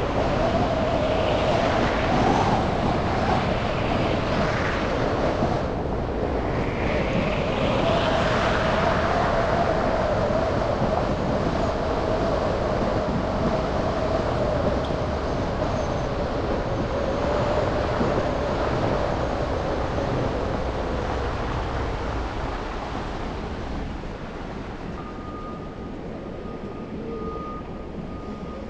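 Road and traffic noise heard from a car driving on wet, slushy city streets: a steady rushing hum with a faint whine that slowly drops in pitch and fades out, the noise easing off near the end.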